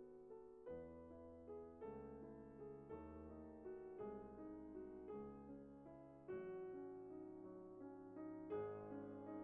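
Soft background piano music, notes struck roughly once a second and left to ring.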